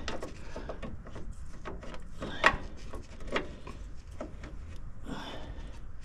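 A wrench fumbling and scraping against a bolt under a truck as it is worked onto the bolt head, with small metallic clicks and two sharper knocks about two and a half and three and a half seconds in.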